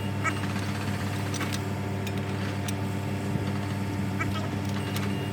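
A machine running steadily with a low, even hum, with a few short clicks and knocks scattered through it.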